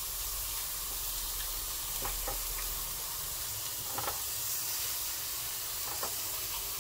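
Scallops sizzling steadily as they sear on a hot ridged grill pan, a sizzle the cook calls the scallops screaming. A few light clicks of tongs against the pan break in at about two, four and six seconds.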